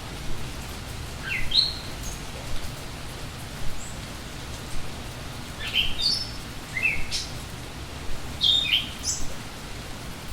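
Steady rain falling, with a songbird chirping in short, quick phrases that mostly sweep upward in pitch, four times.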